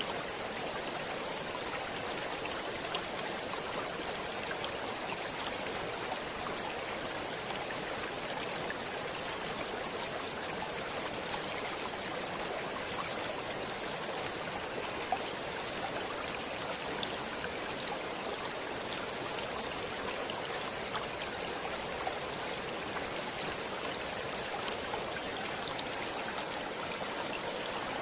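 Stream water running steadily over rocks, a continuous splashing rush with fine scattered drips and trickles.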